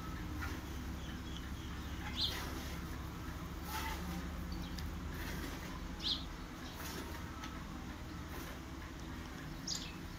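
A few short, high bird chirps, spaced irregularly, over a low steady hum.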